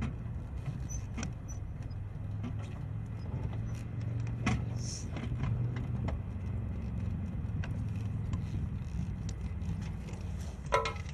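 Motorcycle engine running with a steady low hum, with scattered light clicks and rattles. A brief louder sound comes near the end.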